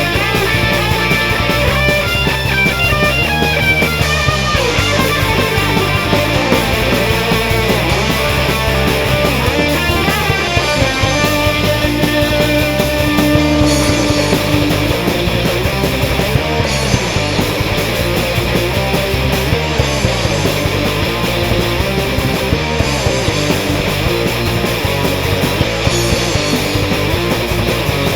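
Loud rock music with guitar, playing without a break.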